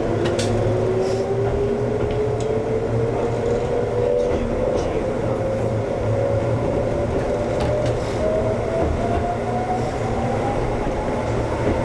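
Ex-Tokyu 7000 series electric train's traction motors whining, the pitch climbing steadily as the train accelerates, over running noise with scattered clicks of the wheels over rail joints.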